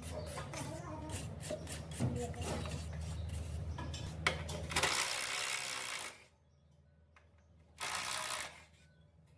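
A tool's low motor hum with fast rattling clicks, stopping after about five seconds, followed by two short bursts of loud hissing.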